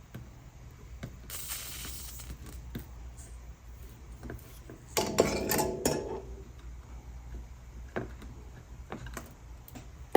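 Small hard metal and glass pieces handled on a work surface: scattered clicks and a brief hiss, then a louder clatter with a short ringing clink about five seconds in.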